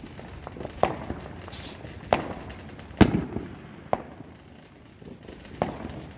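Fireworks going off: five sharp bangs at irregular intervals of about a second, the loudest about three seconds in, over a steady scatter of smaller pops and crackles.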